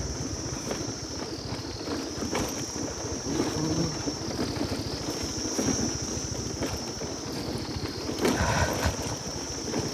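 Footsteps crunching and knocking along a stone-paved hill path, over a continuous high, wavering drone of cicadas or other insects.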